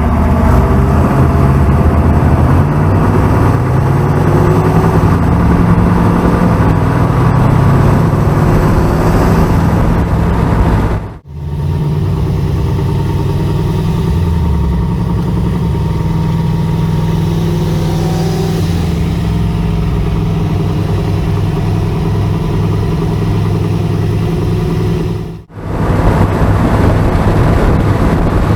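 Car engine running and revving, its pitch stepping up and down. The sound cuts out abruptly twice, about 11 and 25 seconds in.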